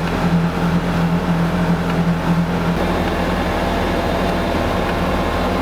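Farm buggy's engine running as it drives through snow, a steady drone heard from on board. Its pulsing hum eases off about halfway through.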